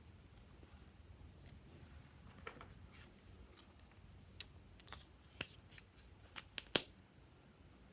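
Glossy slime being mixed and squeezed by hand, making a run of sharp little clicks and pops. The clicks come faster toward the end, with one loudest pop shortly before it ends.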